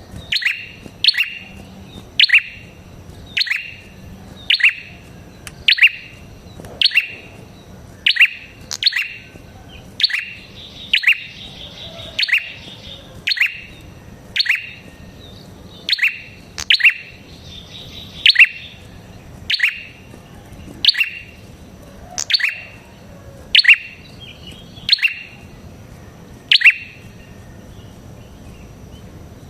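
Prenjak kepala merah (red-headed prenjak) song: a sharp, downward-sliding chip call repeated steadily about once a second, with softer twittering between some of the calls.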